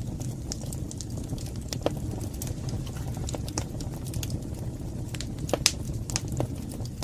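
Wood fire burning in a fireplace: a steady low rumble of the flames with frequent irregular crackles and pops, the sharpest pop near the end.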